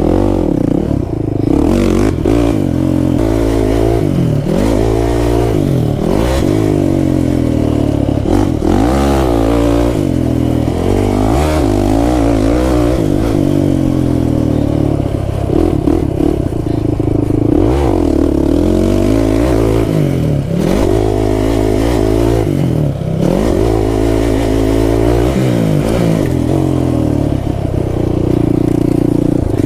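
Kawasaki KFX 450R quad's single-cylinder four-stroke engine under hard riding, its pitch climbing and dropping off again and again as it accelerates and lets off.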